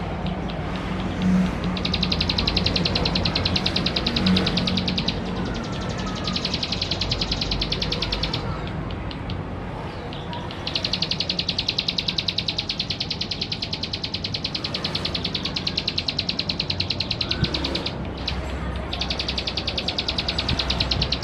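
A male ciblek sawah (prinia) singing its fast, even, ticking trill in four bouts of a few seconds each, the longest about six seconds. A steady low hum runs underneath.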